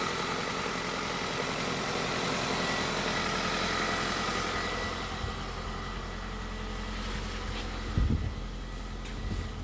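Kia Niro 1.6 hybrid's G4LE four-cylinder petrol engine idling steadily, with one short thump about eight seconds in.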